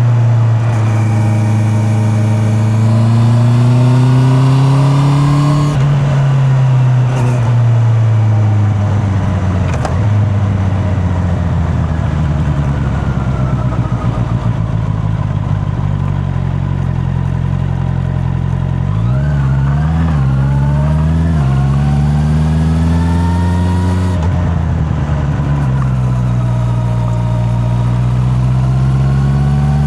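Honda CB650R inline-four engine under way, its revs climbing and falling as the rider works the throttle and gears, with a few quick rises and drops in revs about two-thirds of the way through.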